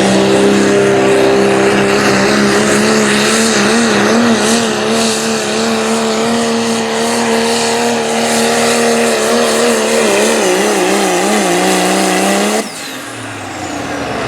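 Turbocharged diesel pickup pulling truck running at full throttle under load as it drags the sled. The engine tone holds steady but wobbles up and down in pitch, and it cuts off suddenly near the end.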